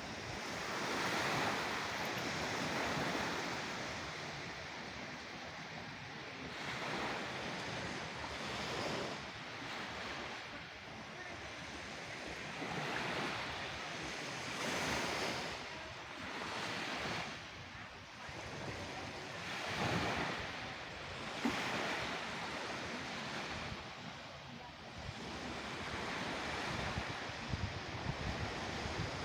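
Sea waves surging and washing back, a steady rush that swells and fades every few seconds.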